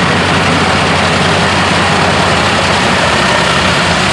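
A large engine running steadily, loud and unbroken, with a low hum beneath a wide rushing noise.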